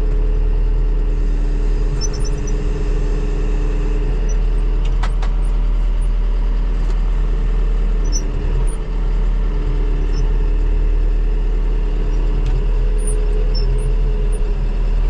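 An engine running steadily at an even, unchanging speed, with a strong low rumble; a faint click or two about five seconds in.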